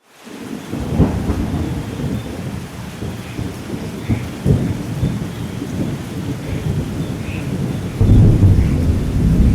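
Thunderstorm: steady rain with thunder, fading in at the start. Sharp thunder claps about a second in and again about four and a half seconds in, with low rolling rumbles between, and a louder peal of thunder from about eight seconds.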